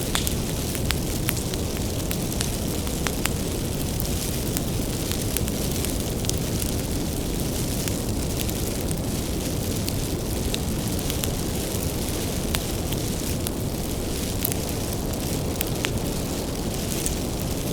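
Bonfire of firewood burning steadily: a low rushing rumble of flame with many sharp crackles and pops scattered through it, several a second.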